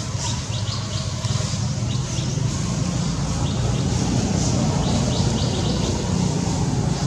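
Small birds chirping in short clusters of quick high notes, over a steady low rumble.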